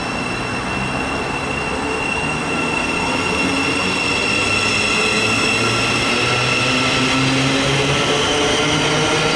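Thameslink Class 700 electric multiple unit pulling away and accelerating. Several tones from its traction motors and inverters rise slowly in pitch and grow gradually louder.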